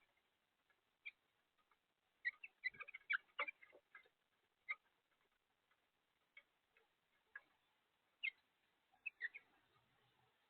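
House finches at a feeder: faint, scattered short chirps and ticks, with a quick run of them about two to four seconds in.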